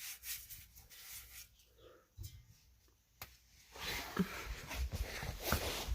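Faint handling and rustling noises, with a sharp click a little over three seconds in, then louder rustling and knocks through the second half.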